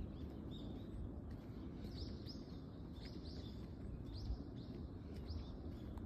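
Small songbirds chirping: a series of short, quick, falling high chirps, several a second from about a second and a half in, over a steady low rumble of outdoor background noise.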